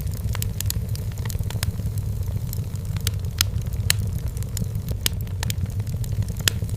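Firewood burning in a fireplace: irregular sharp crackles and pops, several a second, over a steady low rumble.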